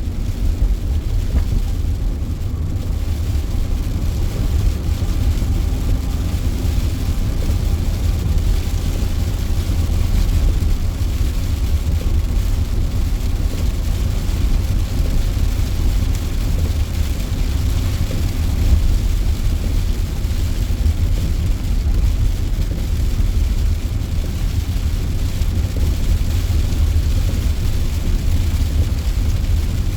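Steady road and engine noise of a car being driven, heard from inside the cabin: a constant low rumble with tyre hiss over it.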